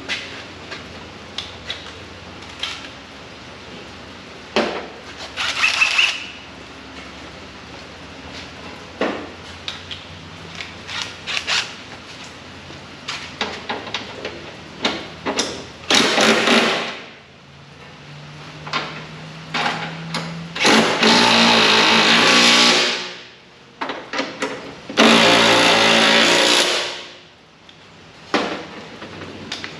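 Workshop sounds from fitting truck body panels: metal parts knocking and clicking, and a power tool running in three bursts of one to two and a half seconds, the longest about two-thirds of the way in.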